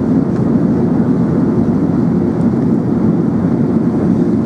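Steady rushing drone of an Airbus A380 in flight heard from inside the cabin: engine and airflow noise, low and even with no changes.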